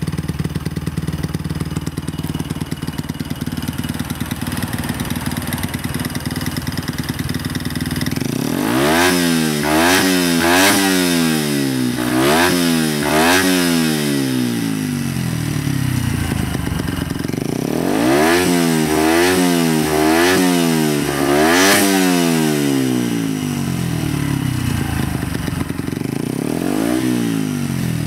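Honda Monkey's 88cc bored-up four-stroke single with an OVER twin short titanium exhaust idling, then revved in quick throttle blips: a run of about four around nine seconds in, another run of about four around eighteen seconds in, and a lighter blip near the end.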